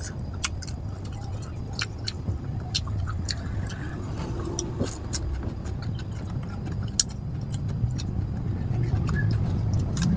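Close-miked chewing and lip smacking: an irregular run of sharp, wet mouth clicks while food eaten by hand is chewed, over a steady low rumble in the background.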